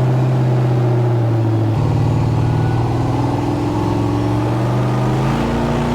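Supercharged LSX V8 of a 1991 GMC Syclone pickup driving on the road, its steady engine note dropping in pitch about two seconds in and again near the end, like gear changes, and climbing slowly in between as the truck gains speed.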